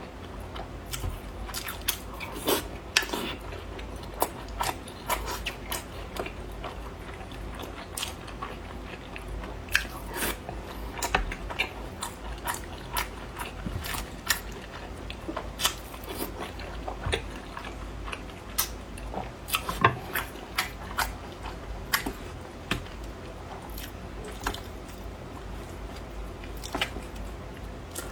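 Close-miked eating sounds: irregular crunchy bites and chewing, full of short, sharp crackles.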